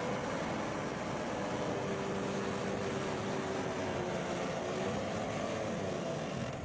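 Bulldozer's diesel engine running steadily, with a faint whine that wavers slightly in pitch.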